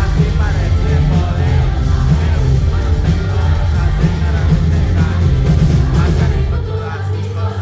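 Loud live pop-rock music with a woman singing over heavy bass. About six and a half seconds in, the deep bass drops away and the sound thins.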